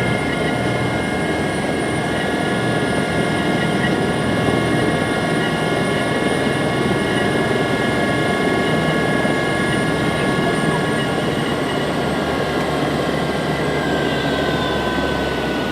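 Helicopter running in flight, heard from inside the cabin: a steady, loud rumble of rotor and engine noise with a constant high turbine whine. Several of the whine tones dip slightly in pitch near the end.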